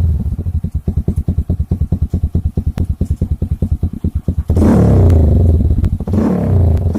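TVS Apache RTR 200 4V's single-cylinder engine running through an aftermarket exhaust: idling with an even pulse of about ten beats a second, then blipped about four and a half seconds in and again about six seconds in, the pitch falling back after each blip.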